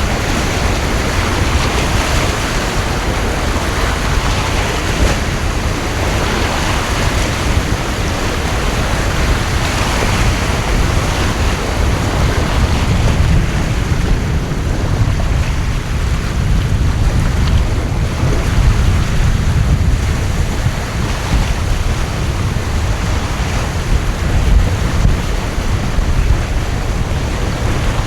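Torrential rain pouring steadily, with wind gusting and buffeting the microphone in a low rumble.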